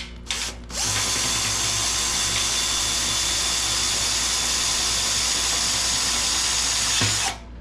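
Power drill driving a self-tapping screw through a steel hinge into the tank wall: a few quick trigger blips, then about six seconds of steady running with a thin whine, stopping suddenly near the end.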